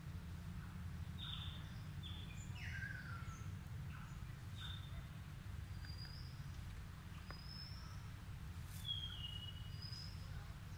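Scattered short bird chirps and whistles, several of them falling in pitch, over a steady low background rumble.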